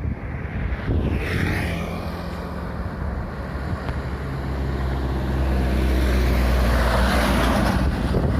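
Heavy truck or bus engine running with a steady low hum, getting louder about five seconds in as it comes close past, with road and tyre noise at its loudest near the end.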